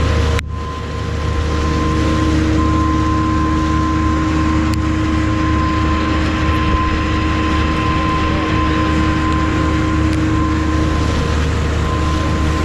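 Tour boat's engine running steadily, a constant low hum with a held tone over it. About half a second in there is a sharp click, and the sound drops for a moment before recovering.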